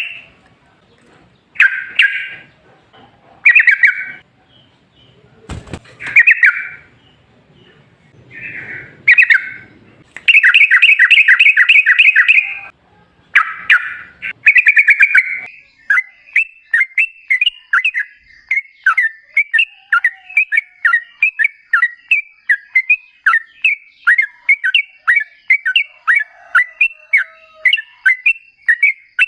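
Yellow-vented bulbul (trucukan) singing: short, loud, bubbly chattering phrases with pauses between them in the first half, then from about halfway a long unbroken string of rapid repeated notes.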